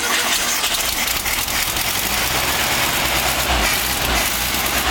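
Volkswagen Karmann Ghia's air-cooled flat-four engine running on a cold start, with its low rumble growing stronger about halfway through.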